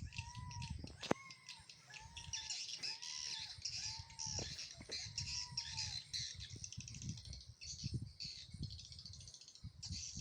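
Swiftlet calls: rapid high twittering chirps throughout, with a repeated arching whistle note about every 0.7 s for the first six seconds, as played by a swiftlet-house lure sound. A single sharp click comes about a second in.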